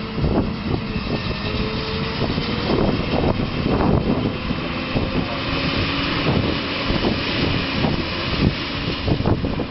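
Tractor engines running steadily at a field working demonstration, a loud continuous drone with wind buffeting the microphone.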